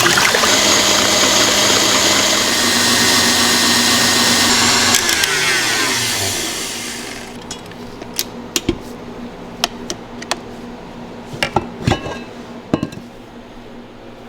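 A motor-driven appliance runs loudly for about five seconds, then is switched off and winds down with a falling pitch. Scattered clicks and knocks follow.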